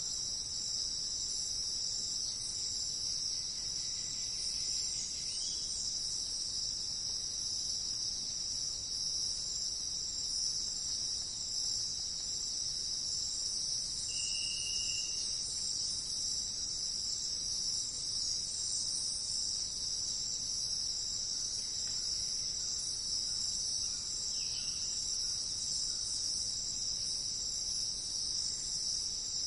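Steady high-pitched insect chorus, like crickets trilling, continuing without a break. A couple of short, faint bird notes sound about halfway through and again later.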